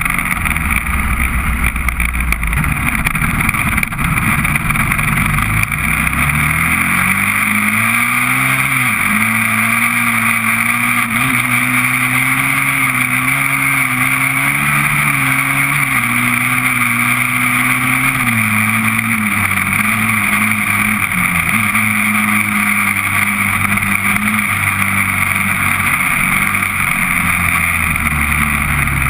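Honda TRX400EX ATV's single-cylinder four-stroke engine running. It is low and rough for the first several seconds, then revs up about six seconds in and holds higher revs with small shifts in pitch. It drops back at around twenty seconds and settles low near the end.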